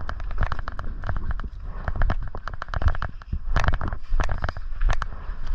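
Airsoft guns firing: a rapid, irregular run of sharp cracks over a low rumble.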